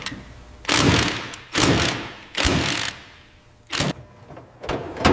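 A run of five heavy thuds at uneven spacing, each fading away over about half a second.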